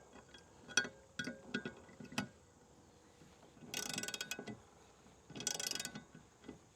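A wrench tightening the 5/16 bolts on a kayak landing-gear bracket: a few single metal clicks, then two quick bursts of rapid clicking as the wrench is worked.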